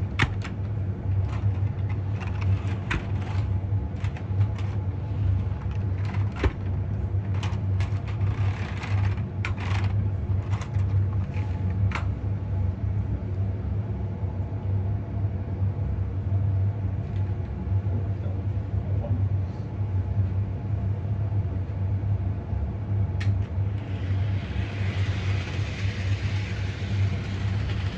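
A steady low hum runs throughout. Over it come irregular sharp clicks and light knocks through the first half or so, as plastic HO-scale freight cars are handled, set on the track and coupled. A soft hiss comes up near the end.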